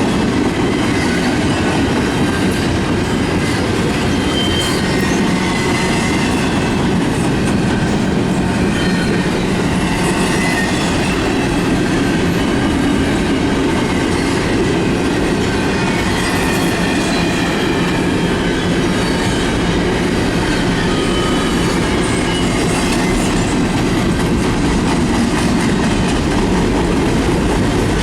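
Intermodal container freight train rolling by: a loud, steady rumble of railcar wheels on the rails, with a thin high squeal now and then.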